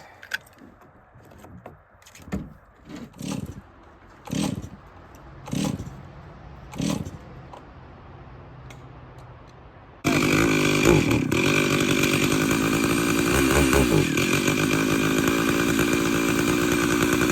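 Chainsaw being pull-started: about six tugs on the starter cord over the first seven seconds, then about ten seconds in the engine is running loud and steady.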